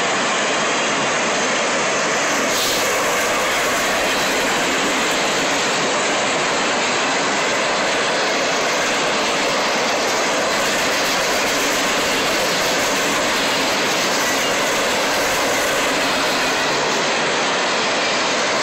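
Empty railroad flat cars of a freight train rolling past at trackside: a steady, even noise of steel wheels on rail.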